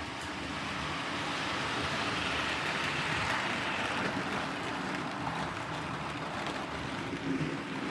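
Model steam locomotive pulling clerestory carriages round a model railway layout: a steady rolling rumble of wheels on track and motor, swelling as the train passes close about three seconds in, then easing off.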